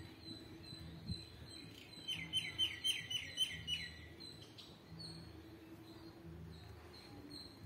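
Birdsong: a bird calls a quick run of about eight falling notes, about two seconds in, over a steady high peeping repeated about three times a second.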